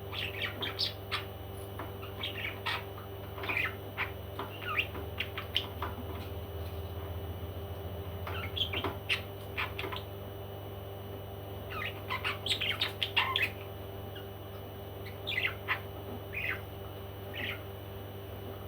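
Parrot chirping and squawking in short, sharp calls that come in quick clusters with pauses between, over a steady background hum.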